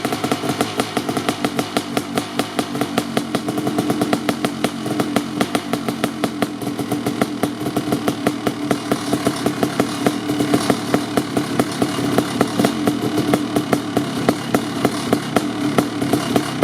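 Kawasaki KX500's 500cc two-stroke single, through an FMF Gnarly expansion chamber and PC silencer, idling while it warms up after a cold start. It runs with a fast, slightly uneven beat.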